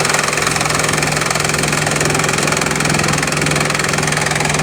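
Bamboo-crushing machinery running steadily under load, a loud engine-like hum with a fast, even rattle.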